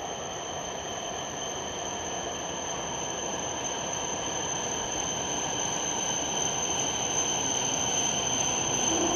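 A Hokuriku Shinkansen train pulling slowly into the station. Its running noise grows steadily louder as it nears, with a steady high-pitched whine over it.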